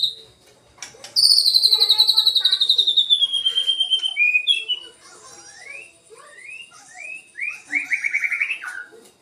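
White-rumped shama (murai batu) singing: a long, fast trill that slides down in pitch, followed by a run of short, varied rising notes and a quick trill near the end.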